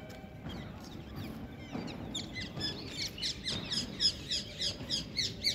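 Small birds chirping: many short, quick downward chirps that start about two seconds in and come several a second, over a steady low background noise.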